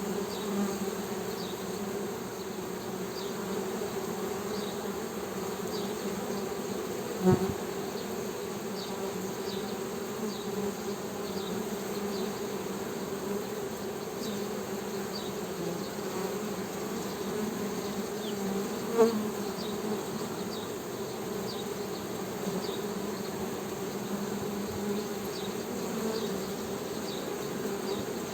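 Honey bees humming: a steady low buzz of many wingbeats, with two brief louder swells, about a quarter of the way in and again two-thirds through.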